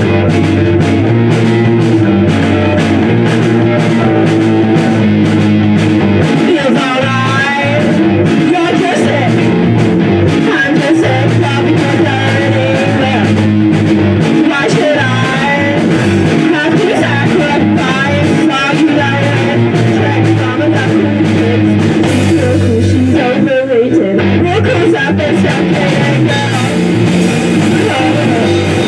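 Rock band playing live, guitar to the fore over a steady beat, with a wavering melody line in the middle stretch.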